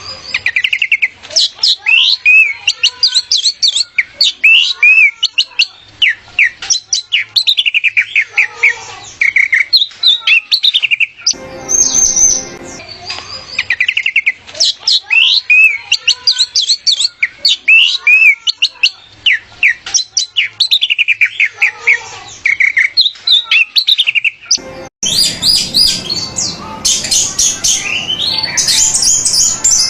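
Orange-headed thrush (anis merah) singing: a long, varied song of quick high whistles and chirps. The same song passage plays again about eleven seconds in. About 25 seconds in it switches to a hissier recording of denser, busier chirping.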